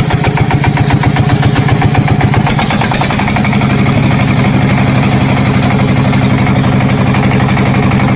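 Diesel-type tractor engine running, with a fast, uneven chugging for about the first three seconds, then settling into a steady idle.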